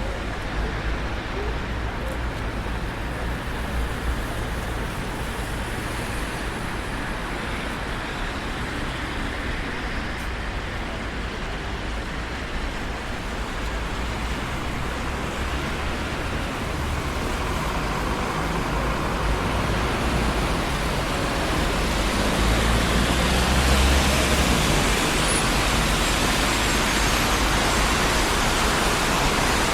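Steady road traffic on a busy city street, a continuous rumble and tyre hiss of passing cars. The noise swells in the second half, as a louder vehicle passes close, loudest a little after two thirds of the way in.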